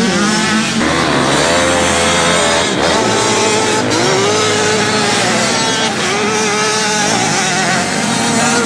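Pit bike's small single-cylinder four-stroke engine being ridden hard, its pitch climbing and dropping several times as the rider accelerates and backs off the throttle.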